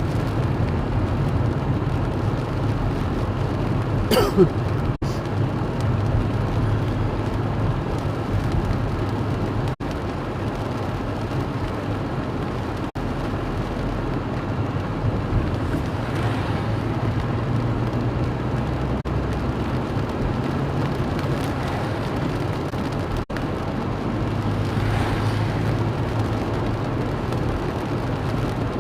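Steady road and engine noise of a moving car heard from inside. About four seconds in there is a brief rising sound, and the audio cuts out for an instant several times.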